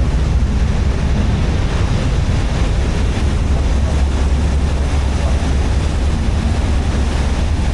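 Steady low engine drone under an even rush of wind and water noise, as aboard a moving boat.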